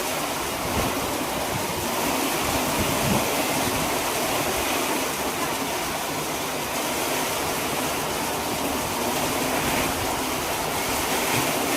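Rain pouring down steadily, an even hiss of falling water.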